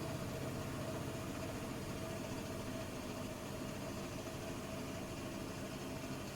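Bosch WAT286V0 EcoSilence Drive washing machine running steadily, a constant motor whine over a low hum, most likely in its final high-speed spin near the end of a 90 °C boil wash.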